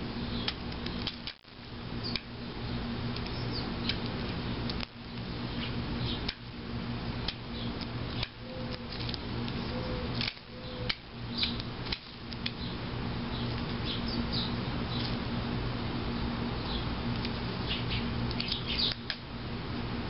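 Steady low hum under a noisy background, with short high bird chirps scattered throughout and more of them near the end.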